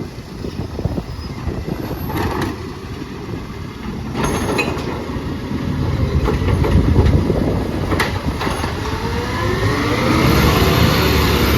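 Side-loader garbage truck running with a steady low rumble, broken by several sharp knocks and clatters. Near the end, rising whines climb as the truck revs up.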